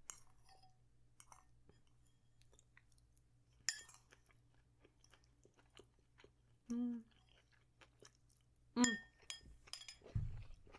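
Close-miked chewing of food (a falafel bowl), with scattered small mouth clicks. There is a brief hummed voice sound about seven seconds in, another short sound near nine seconds, and a low thump near the end.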